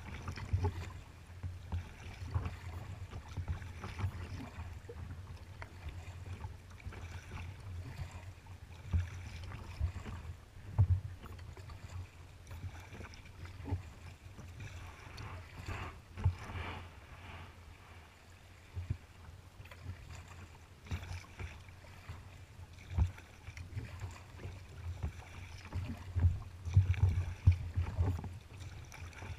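Kayak paddling on open water: paddle strokes and water splashing around the hull, with irregular low thumps on the microphone that are loudest near the end.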